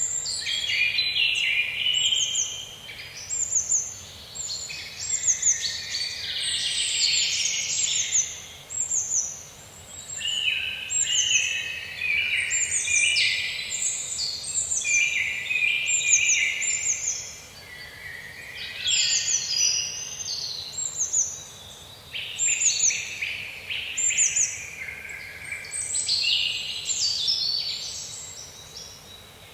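Songbirds singing in a chorus, many short chirps and trills overlapping one another, rising and falling in loudness over a faint steady background hiss.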